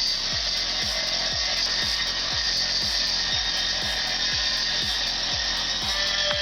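Chainsaw running steadily as it cuts through wood, over background music with a steady drum beat.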